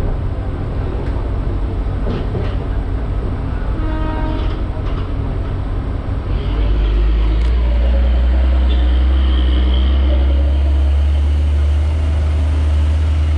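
Electric commuter train running, with rumbling noise and a brief pitched tone about four seconds in. A strong steady low hum sets in about six and a half seconds in.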